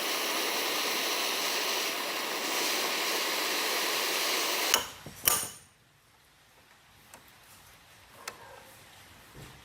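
Workshop tool noise: a steady hiss that cuts off about five seconds in with two sharp clicks, followed by a few faint taps and ticks.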